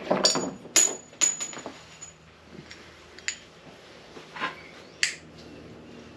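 Steel transfer case parts being handled on a workbench: a series of sharp metal clinks and knocks, one leaving a short high ring near the start.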